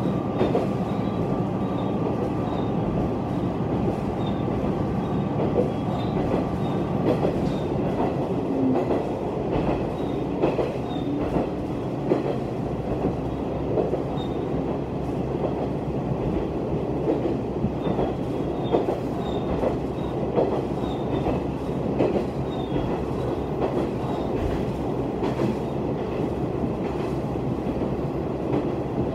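Diesel railcar running at speed, heard from inside the car: a steady rumble of engine and wheels on the rails, with irregular rail clicks. A thin, high, steady whine stops about seven seconds in.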